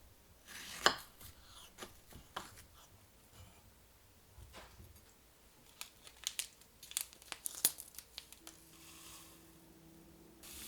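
Paper being handled: crinkling and tearing with scattered sharp crackles, busiest from about six to eight seconds in.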